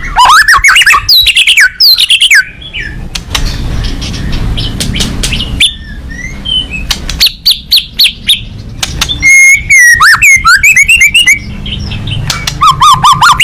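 White-rumped shama (murai batu) singing a loud, varied song of rapid whistled glides and sharp notes, with a harsher, noisier stretch about three to six seconds in.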